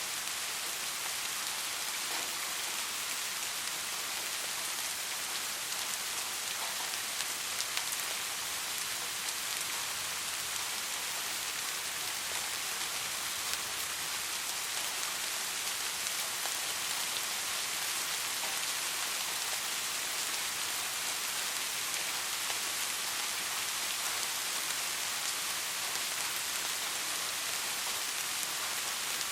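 Steady soft rain: an even hiss of rainfall with faint individual drop ticks scattered through it.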